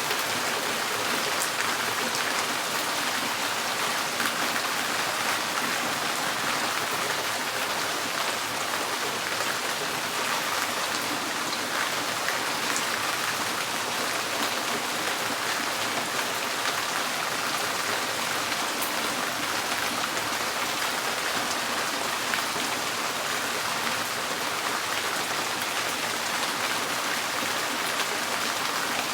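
Steady rain drumming on a tin porch roof: an even hiss of many drops with fine scattered ticks, unchanging throughout.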